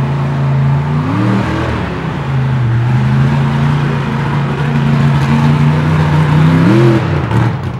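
Mud truck engine running hard at high revs during a mud-bog run. The pitch holds fairly steady, climbs briefly about a second in and again near the end, then falls back each time.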